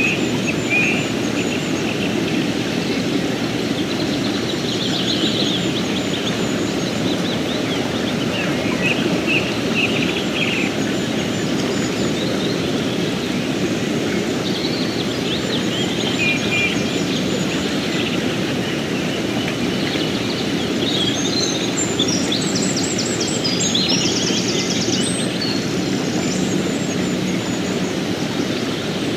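River water flowing steadily, with birds chirping and trilling over it off and on, busiest in the last third.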